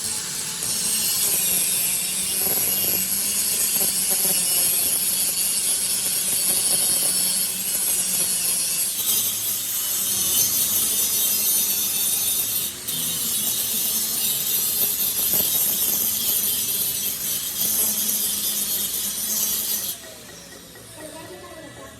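Steady, loud abrasive grinding of a steel excavator track link with a power grinder, a continuous high hiss that dips briefly twice and stops shortly before the end.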